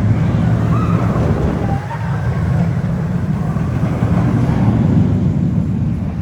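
Loud, steady low rumble of a suspended looping roller coaster's train running along its track, with wind buffeting the microphone and a brief faint squeal about a second in.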